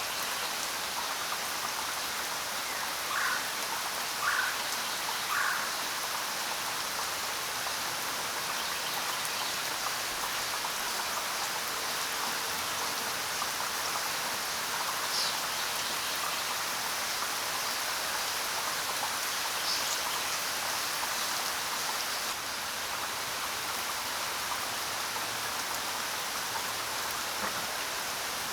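Steady rain falling, an even hiss. Three short bird calls come a few seconds in, and a couple of brief, higher chirps come later.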